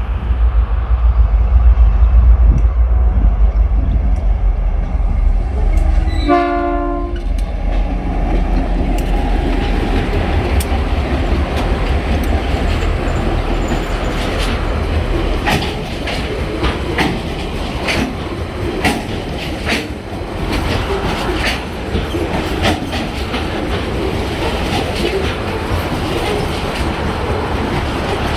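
Two TasRail diesel locomotives, 2054 and 2051, pass at the head of a coal train with their engines running heavily. The horn sounds once for about a second, some six seconds in. After that the coal wagons roll by with steady rolling noise and irregular clicks of wheels over rail joints.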